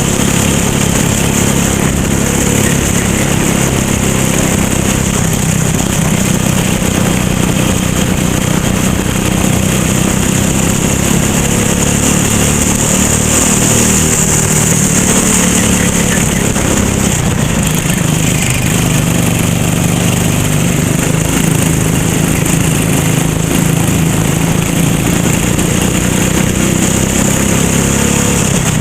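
Racing kart engine running hard through a lap, its pitch rising and falling as it revs up on the straights and drops off for the corners, with a steady hiss of wind and road noise over it.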